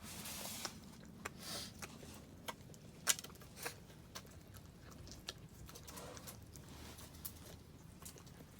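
Scattered small clicks, taps and short rustles over a low steady hum, with one sharper click about three seconds in.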